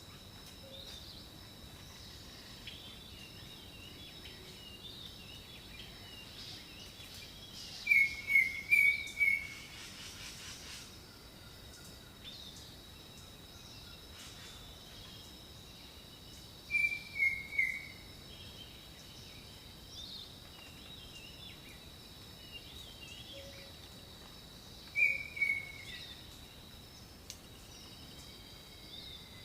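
Jungle birdsong: one bird repeats a loud phrase of three or four short notes, falling slightly in pitch, three times, about eight seconds apart. Between the phrases other birds chirp faintly over a steady high insect drone.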